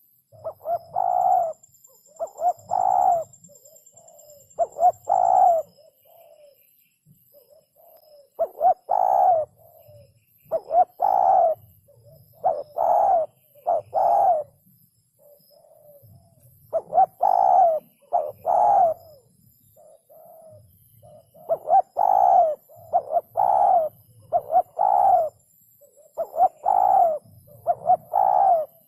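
Spotted dove cooing: loud, low hooting notes in repeated phrases of two to four coos, with short pauses between phrases.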